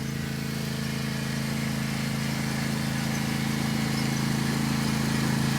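Small lawnmower engine running steadily at speed, growing gradually louder as the mower comes closer.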